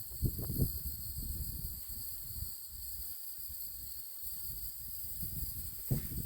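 Steady high-pitched chorus of crickets or similar insects droning without a break. Under it, uneven low rumbling on the microphone, with louder bumps shortly after the start and again near the end.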